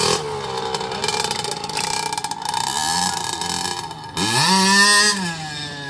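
Dirt bike engine running, revved up and back down once about four seconds in.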